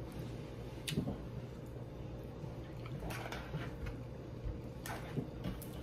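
Quiet, wet chewing of a mouthful of rice, with a few faint clicks of chopsticks and utensils against the bowls.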